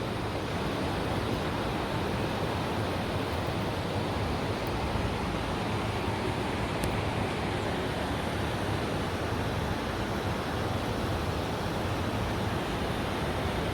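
Steady, unbroken rush of a torrent of floodwater after heavy rain.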